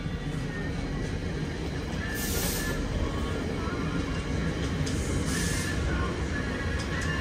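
NJ Transit diesel commuter train with a GP40PH-2B locomotive, a steady low rumble with faint squealing from the wheels. Two short hisses of air come about two and five seconds in.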